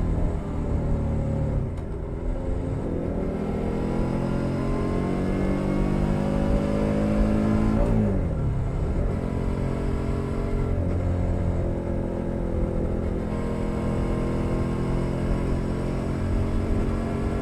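2021 Suzuki SV 650's V-twin engine through a LeoVince Nero exhaust under riding load. It pulls with pitch rising steadily for about six seconds, drops sharply as the throttle closes or a gear changes about eight seconds in, then runs on at a fairly steady pitch.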